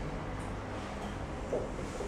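Steady low room hum with a faint soft knock about one and a half seconds in.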